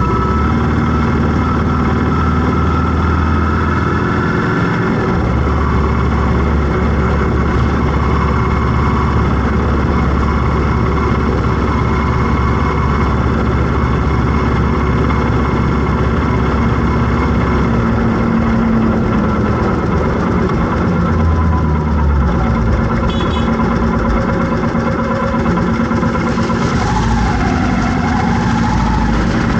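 Road traffic: vehicle engines running and idling, a steady low engine hum over constant road noise.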